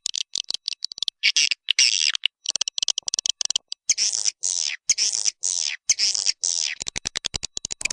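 Swiftlet lure call recording: repeated high twittering chirps, each falling in pitch, broken by abrupt gaps. A rapid train of clicks comes near the end.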